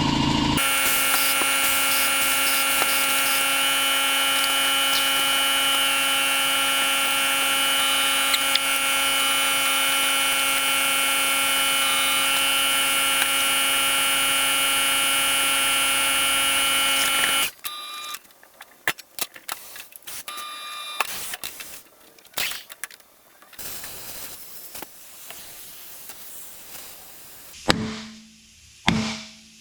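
A motor-driven shop machine runs with a loud, steady whine for about seventeen seconds and then stops suddenly. After it stops come scattered metal clanks and knocks, with two sharp ones near the end.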